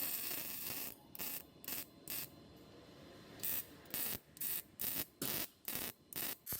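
Compressed air hissing in about a dozen short bursts, a longer one first and then quick blasts roughly half a second apart.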